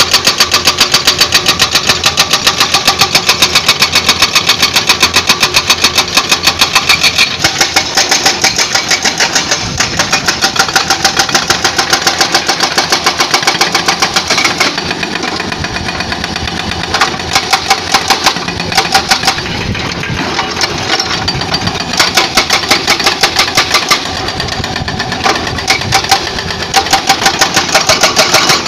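Excavator-mounted hydraulic breaker hammering rock in rapid, evenly spaced blows, several a second, over the excavator's running engine. It pounds without a break for about the first half, then in short bursts of a second or two with pauses between.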